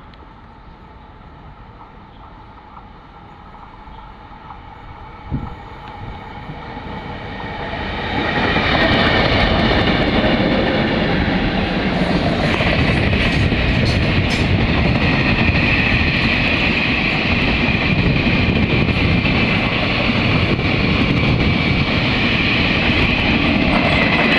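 Diesel-hauled freight train approaching and passing: the rumble grows louder over the first eight seconds, then stays loud and steady as the locomotives and wagons roll by. There is a single sharp knock about five seconds in.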